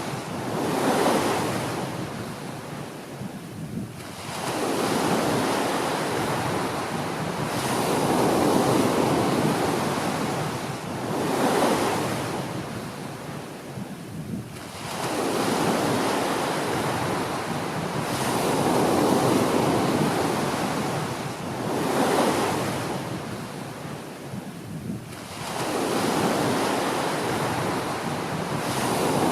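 Small ocean waves breaking and washing up a beach, the surf swelling and falling away every few seconds.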